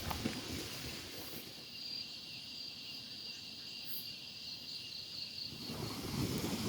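Insects trilling steadily in a faint outdoor background. Wind picks up as a low rumble near the end.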